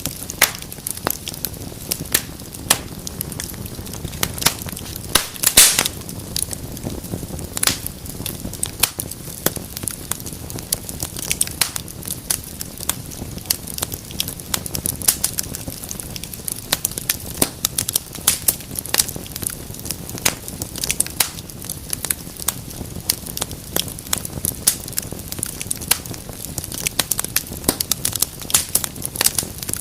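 Wood fire in a fireplace crackling: a steady low rush of flame with frequent irregular sharp pops and snaps, and a louder flurry of crackles about five seconds in.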